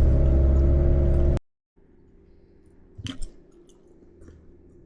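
A loud steady drone, like a car's engine and road noise inside the cabin, that cuts off abruptly after about a second and a half. Then comes a quiet stretch with a faint hum and a few soft clicks and crunches of someone eating.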